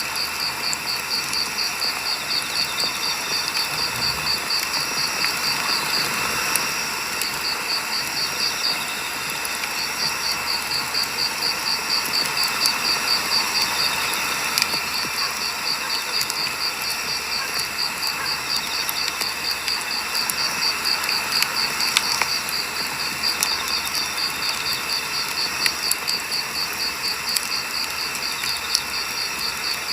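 Wood campfire burning, with scattered sharp crackles and pops, while a cricket chirps in a fast even pulse of about five a second that breaks off briefly a few times.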